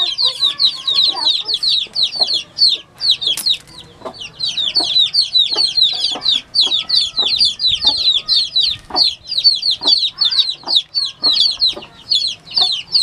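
Newly hatched chicks peeping nonstop, a dense stream of quick, high-pitched falling peeps from several birds at once, thinning briefly about three seconds in.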